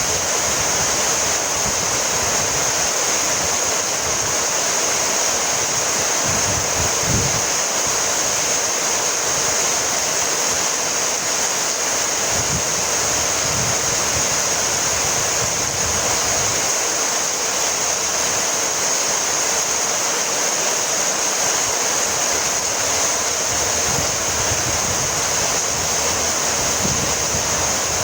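Heavy rain falling steadily, an even, unbroken hiss, with a few brief low rumbles underneath.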